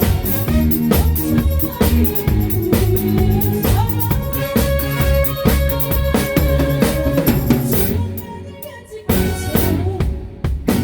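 Live band playing a song: drum kit keeping the beat under bass and guitar. The band drops out briefly about eight seconds in, then the drums come back in with a hit and the groove resumes.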